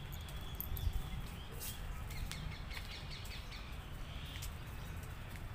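Outdoor ambience: a steady low rumble on the microphone, with a few faint, brief bird chirps about halfway through.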